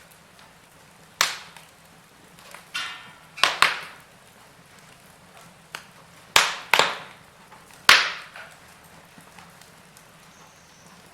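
Wood fire in a fireplace crackling, with about seven sharp pops spread irregularly over a faint steady hiss.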